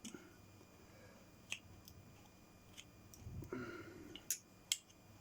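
Light clicks and taps of a metal pin being worked through a 3D-printed plastic caster wheel, a tight fit, with a short scrape about three and a half seconds in and the sharpest clicks near the end.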